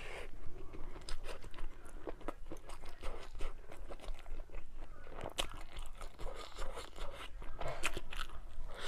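A person chewing and biting food close to the microphone, with a run of short crunches and wet mouth clicks.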